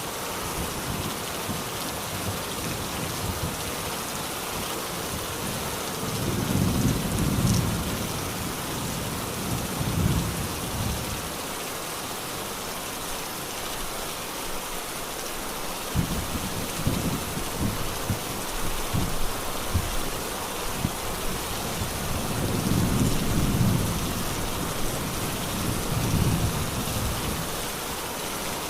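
Steady rain falling, a continuous hiss, with low rolls of thunder rumbling several times.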